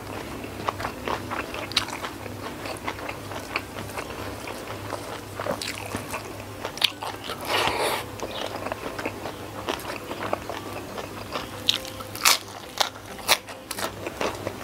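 Close-miked chewing and biting as a person eats rice with sardine, shrimp and petai sambal by hand, with many short wet mouth clicks. A longer, noisier stretch comes as a handful goes into the mouth about eight seconds in, and a few sharper clicks come near the end.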